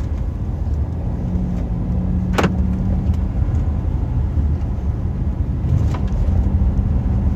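Car driving, heard from inside the cabin: a steady low rumble of road and engine noise with a faint hum. There is one sharp click about two and a half seconds in, and a fainter one near six seconds.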